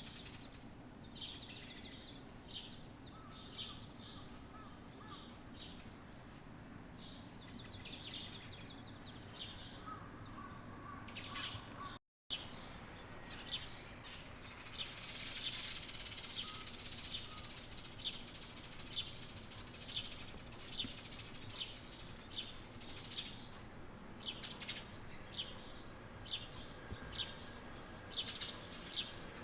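Small songbirds chirping, short high calls repeated every second or so, with a stretch of dense, continuous twittering in the middle. The sound drops out for a moment just before the twittering begins.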